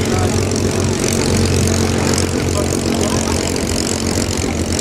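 Propeller aircraft piston engines running with a steady low drone.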